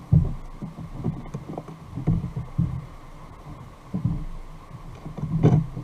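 Irregular low thumps, roughly one a second, of water slapping against a kayak hull, with a sharper knock near the end.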